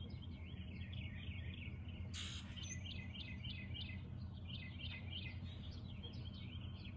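Small birds chirping, a long run of short, rapid chirps, over a steady low hum. A brief rush of noise comes about two seconds in.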